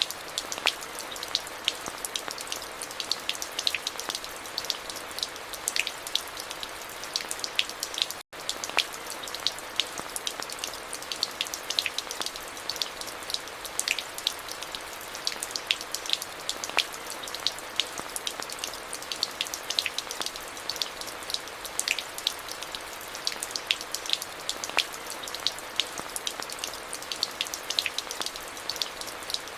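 Steady rain falling, with many distinct close drops ticking over a constant hiss. The sound cuts out for an instant about eight seconds in.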